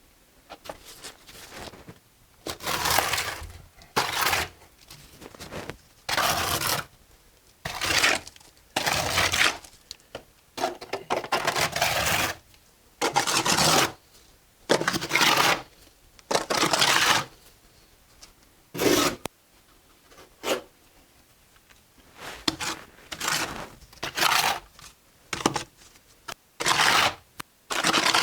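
Steel mason's trowel scraping and spreading mortar while bricks are laid: a series of irregular scraping strokes, each a fraction of a second to about a second long, with short pauses between.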